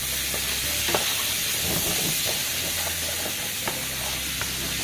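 Diced salt pork and celery sizzling in a hot frying pan as a wooden spoon stirs them, with a few short scrapes and taps of the spoon against the pan.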